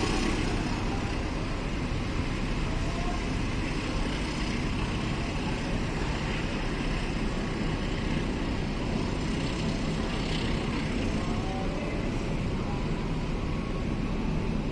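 Steady rumble of a train.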